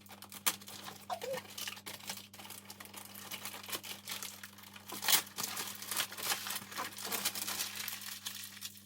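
Wrapping paper crinkling and tearing as a birthday present is unwrapped, in a run of irregular crackles with a louder rip about five seconds in.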